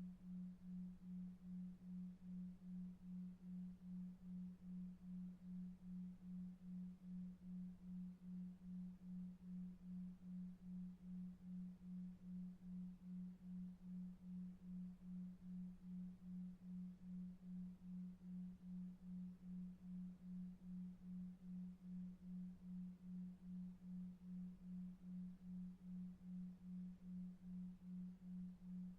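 A low, steady electronic sine tone pulsing evenly about two and a half times a second, a 2.5 Hz delta-wave pulse for sleep, over faint low brown noise.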